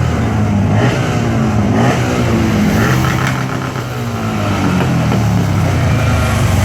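Several motorcycle engines running at once, revving up and down in overlapping rises and falls of pitch.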